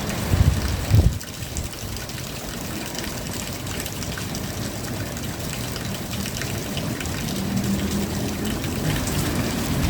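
Steady rain falling, an even patter of drops with water running, with a few low thumps in the first second and a faint low hum a little before the end.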